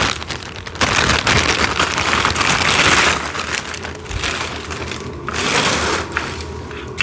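Plastic packaging crinkling and rustling as parts are unwrapped and handled, loudest from about a second in to about four seconds, then lighter with a few sharper rustles.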